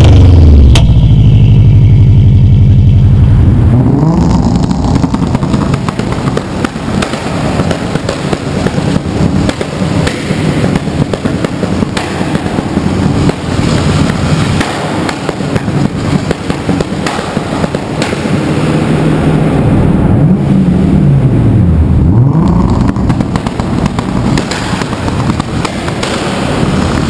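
A 2004 Subaru Impreza WRX STi's turbocharged flat-four revs for the first few seconds. Then a Nissan 240SX's RB25 turbo straight-six with antilag takes over for the rest, with rapid bangs and crackles from the antilag firing in the exhaust to keep the turbo spooled. The revs dip and climb again near the end, and the sound carries in a tunnel.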